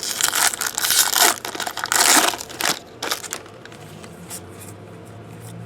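Plastic trading-card pack wrapper crinkling as it is torn open and crumpled by hand, loud for about three seconds, then dying down.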